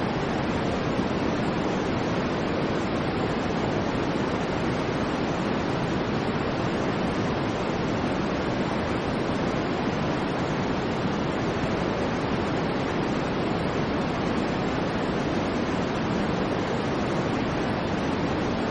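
Steady white noise: an even, unchanging hiss with no rhythm or breaks, fullest in the low-middle range.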